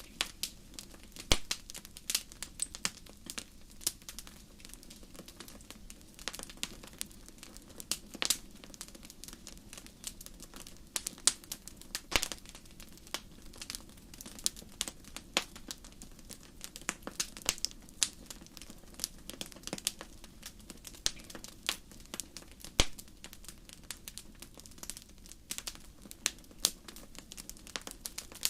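Campfire crackling: irregular sharp pops and snaps, a few of them loud, over a steady low rush of burning.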